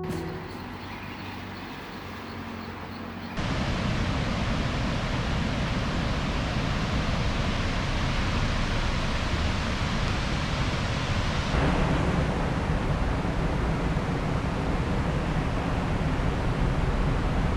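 Steady rushing water of a waterfall, a constant noise without pitch; it gets suddenly louder about three seconds in after a quieter stretch.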